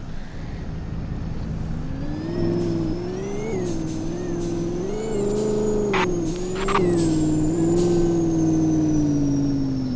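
Vehicle engine running under changing throttle: its pitch climbs about two seconds in, rises and dips a few times, then slowly falls away near the end, with a faint high whine rising and falling along with it. Two short clicks come a little past the middle.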